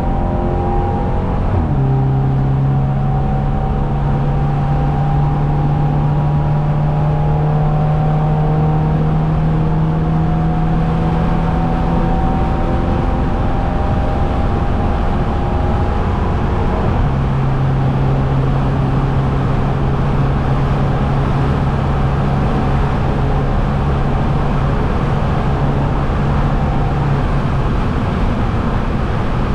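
Straight-piped, turbocharged Mercedes C250 engine and exhaust droning steadily while driving. The pitch drops suddenly about two seconds in, then climbs slowly, and changes again a little over halfway through.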